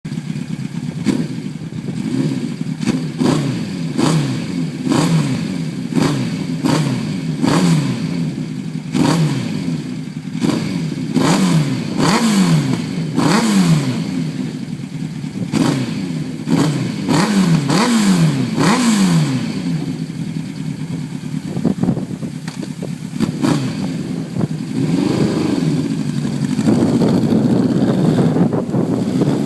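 A 2002 Kawasaki Ninja ZX-9R's inline-four engine is revved over and over in short throttle blips, each rising and falling quickly in pitch over a steady idle. The blips stop after about twenty seconds. Near the end the engine revs up and holds a higher note.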